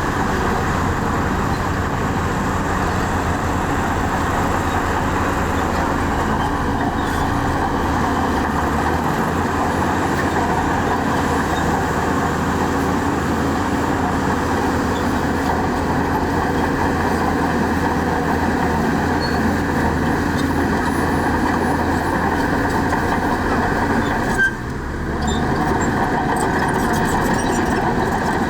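Heavy diesel construction machinery running steadily under load, with a brief drop in level near the end.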